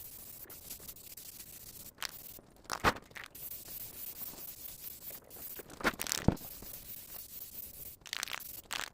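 Hissing spray on a rusty steel tractor rim, going in bursts with brief pauses, with a few sharp knocks.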